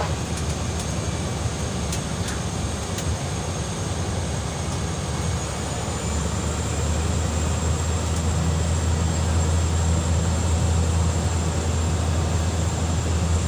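Steady drone of a small propeller plane heard from inside the cabin in flight, with a thin high whine above it. The low hum grows louder about six seconds in.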